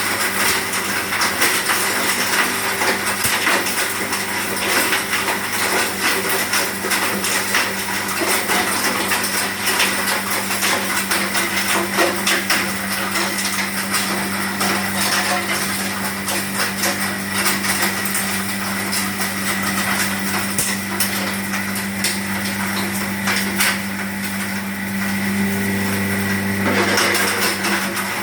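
Hammer-mill stone pulverizer running, a steady motor hum under a dense, irregular clatter of stone being struck and ground inside the mill. About a second before the end the clatter thins briefly and the hum grows louder.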